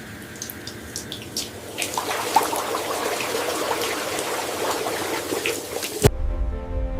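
Rushing, splashing water, growing much louder about two seconds in and cutting off abruptly near the end, where music begins.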